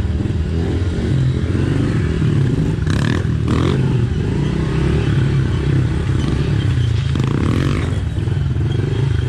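Pit bike engine running steadily at low revs. It is a bike that has sat unused for about two years, now fired up. Two short knocks sound about three seconds in.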